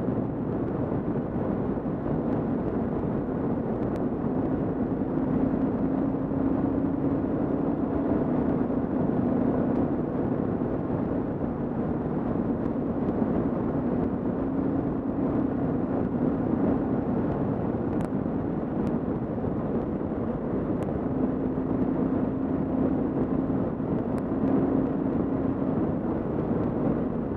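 Kawasaki KLR650's single-cylinder engine running at a steady cruise, its note drifting slightly up and down, under heavy wind rush on a helmet-mounted camera.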